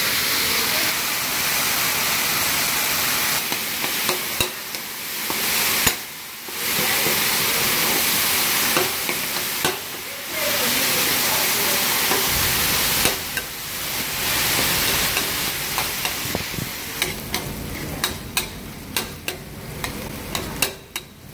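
Food sizzling as it fries in a hot pan and is stirred. The hiss breaks off briefly a few times, and sharp clicks of a utensil against the pan come thick in the last few seconds.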